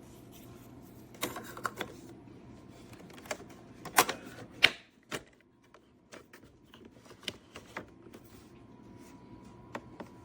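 A series of irregular sharp clicks and taps, loudest a little after four seconds in, over a faint steady hum.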